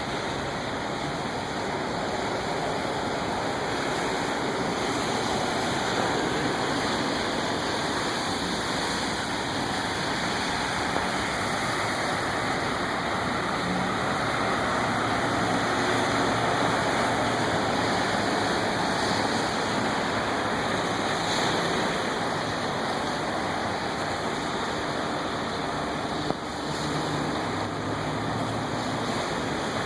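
Steady rushing of floodwater, with a vehicle engine faintly heard at times, around the middle and again near the end.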